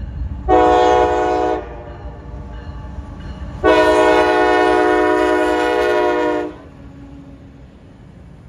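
CSX freight locomotive's air horn sounding a short blast, then a long blast of nearly three seconds, over the low rumble of the train.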